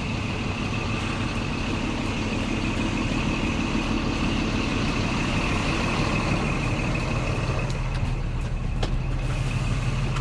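Old Scania truck's diesel engine running steadily, with a steady high whine and faint rapid ticking over it.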